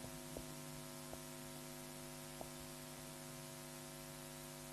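Steady low electrical hum with a faint hiss underneath, and a few faint ticks.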